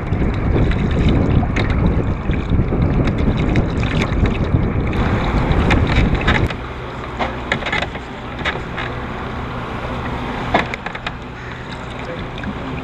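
Wind rumbling on the microphone over open water, dropping off about halfway through. After that, kayak paddles make short, scattered splashes and drips in the water.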